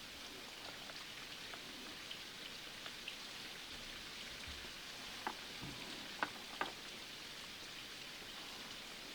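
Steady rain falling, an even hiss with scattered drop ticks. Three sharper clicks stand out between about five and seven seconds in.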